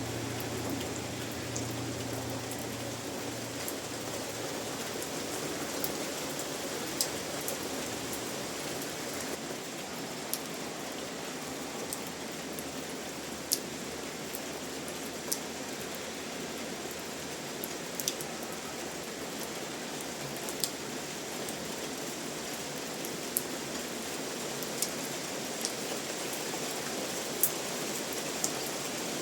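Steady rain falling, an even hiss with scattered single louder drops ticking every second or two.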